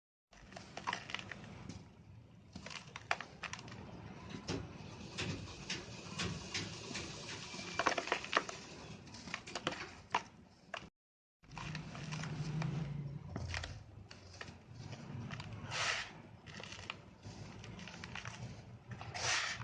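Packed red sand shapes being crushed and crumbling: a dense run of crunchy crackles and grainy trickling, with a few louder crunches. The sound drops out completely twice, just after the start and about 11 seconds in.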